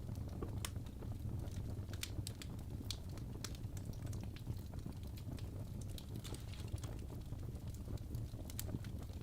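Wood fire of burning logs crackling, with irregular sharp pops and snaps over a steady low rumble of flame.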